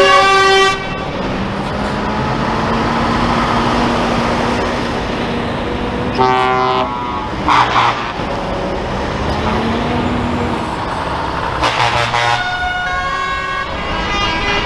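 Trucks driving past with engines running, sounding their horns in loud blasts: one right at the start, another about six seconds in, and a longer one near the end.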